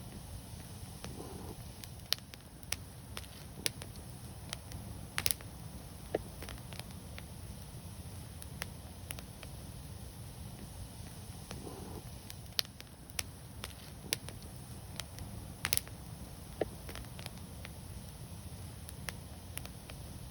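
Wood fire burning with a steady low rumble and scattered sharp crackles and pops, two of them louder than the rest, about five seconds in and near sixteen seconds in.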